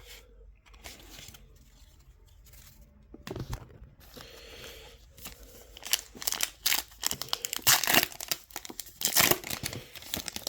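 A trading-card pack wrapper being torn open and crinkled by hand. Soft rustling at first, then a loud run of tearing and crinkling from about six seconds in.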